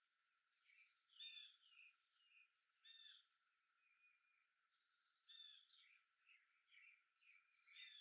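Faint outdoor birdsong: several birds giving short, repeated chirping calls, in clusters about every second or two.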